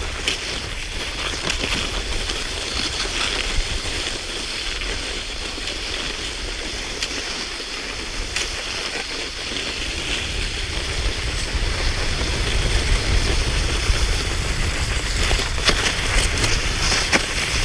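Cross-country skis swishing over snow in a steady stroke-by-stroke rhythm, with wind rumbling on the microphone. It gets a little louder in the last few seconds.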